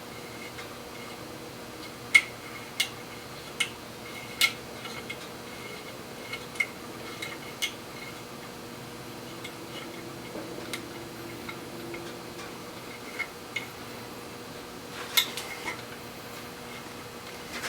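Irregular sharp metallic clicks and clinks from a hand-turned thread-insert installation tool as a coiled-wire thread insert is wound into a stripped bolt hole in the oil filter housing. The clicks come in scattered groups, the loudest about two seconds in and again near the end.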